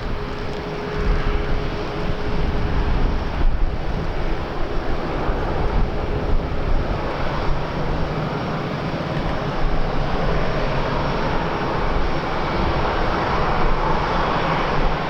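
Airliner engines, a noisy rushing drone that swells to its loudest near the end, with wind buffeting the microphone.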